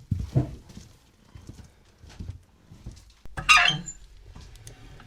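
Irregular knocks and thumps, with a louder, brief clatter about three and a half seconds in.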